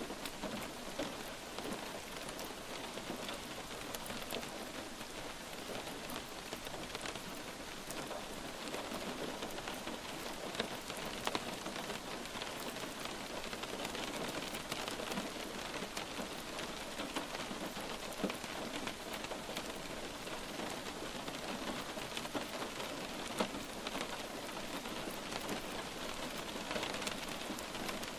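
Light rain falling steadily, a continuous hiss dotted with many small ticks of individual drops.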